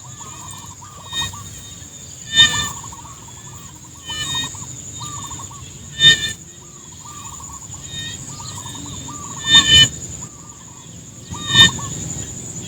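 Rice-field animal chorus: a steady high insect drone, many short repeated calls underneath, and a louder harsh call about every two seconds.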